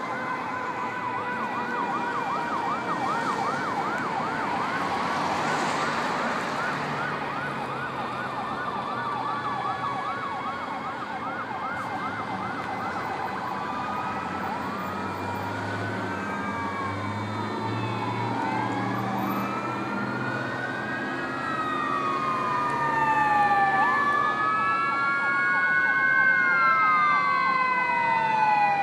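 Fire engine sirens: a fast yelp for the first half, then several slow wails rising and falling and overlapping one another, with the trucks' engines running underneath. The sirens grow louder near the end.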